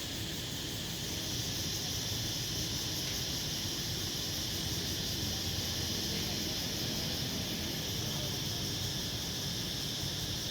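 Dense dusk chorus of insects, crickets to the recordist, making a steady, unbroken high-pitched shrill over a low, steady rumble.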